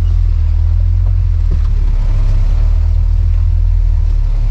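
Off-road vehicle's engine running with a steady low rumble.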